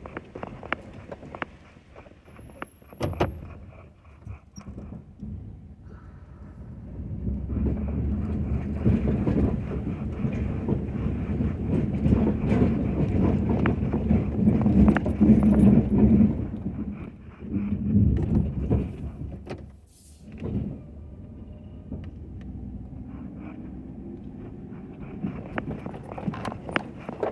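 Ford F-250 pickup with a snow plow, running and working. Clicks and rattles in the first few seconds, then it gets louder for about ten seconds in the middle, and a slowly rising tone comes in near the end.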